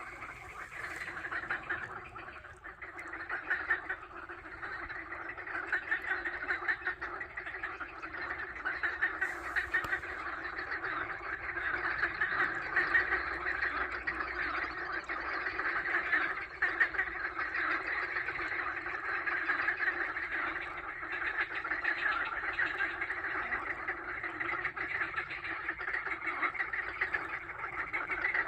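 A dense, continuous chorus of rapid animal calls from the lake, a steady chatter that grows louder about a third of the way in.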